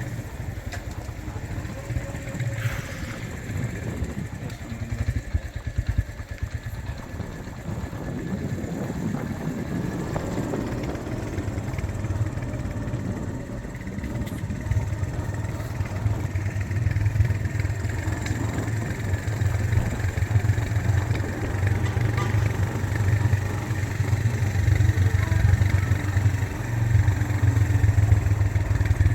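Motor vehicle engine running steadily under road and wind noise while driving, the low drone growing louder in the last third.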